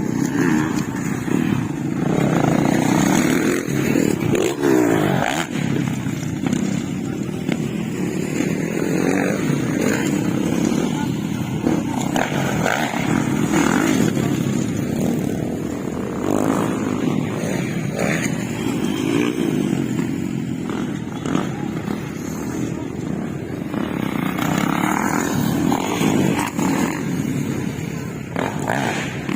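Motocross dirt bike engines running and revving, the pitch climbing and dropping as the bikes speed up and slow down.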